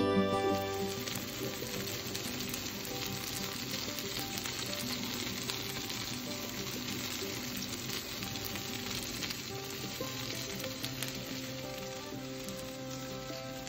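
Cod fillets frying in hot oil in a frying pan, a steady sizzle and crackle.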